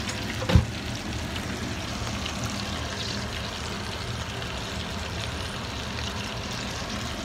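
Steady hiss and low hum of food cooking on the stove, with a single sharp knock about half a second in.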